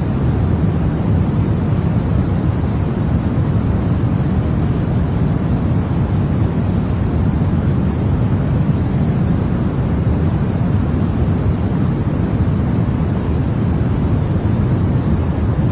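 Continuous baby sleep-aid white noise: an even, unchanging rush, heavier in the low end than the high, with no variation.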